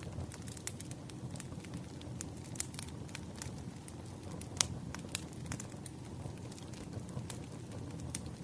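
Campfire burning: a steady low rumble of flames with irregular sharp crackles and pops, one louder pop a little past halfway.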